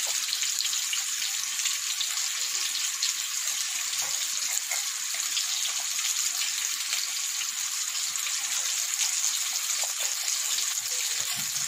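Potato wedges frying in hot oil in a kadai, a steady sizzle.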